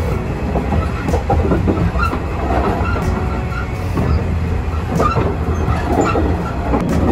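Nishitetsu electric train running at speed, heard from inside the car at the cab end. A steady low rumble of wheels and running gear, with irregular clatter over rail joints and brief squeals from the wheels.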